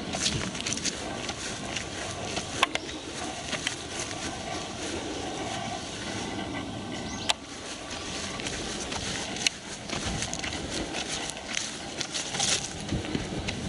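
Footsteps on a park path: irregular crunches and sharp clicks over a steady background hiss.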